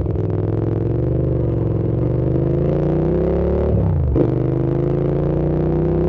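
Hyosung GT650's V-twin engine pulling under acceleration, revs climbing steadily. About four seconds in the pitch drops sharply at an upshift, then the engine climbs again from lower revs.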